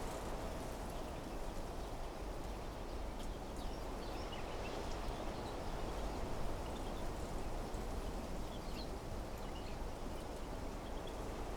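Steady wind blowing through trees and vegetation, with faint, scattered short bird chirps over it.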